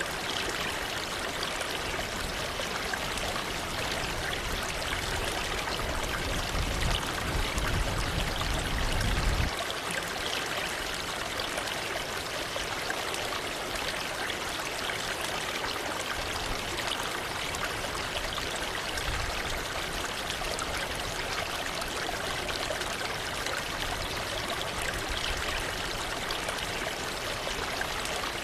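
Waterfall: water falling and rushing in a steady, even hiss. A low rumble underneath cuts off suddenly about nine and a half seconds in.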